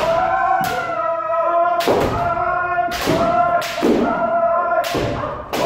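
Kendo practitioners yelling drawn-out kiai shouts one after another, over sharp thuds that come roughly once a second.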